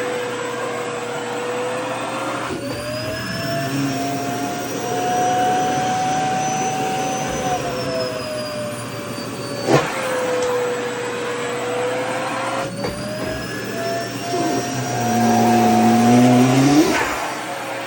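Vacuum cleaner running while a skirt's fabric is sucked against its nozzle, the motor's pitch slowly rising and falling twice. A sharp click about ten seconds in, and a louder stretch near the end.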